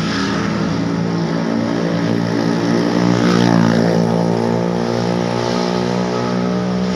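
Road traffic: vehicle engines running close by, with one vehicle passing about three seconds in, its pitch falling as it goes by.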